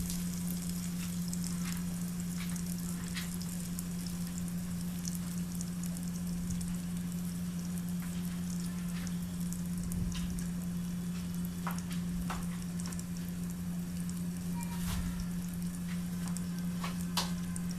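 Brinjal slices frying in oil in a covered kadai: a steady sizzle with scattered crackling pops, over a constant low hum.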